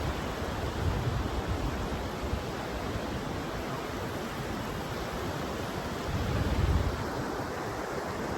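Ocean surf washing steadily, with low gusts of wind buffeting the microphone, the strongest about six to seven seconds in.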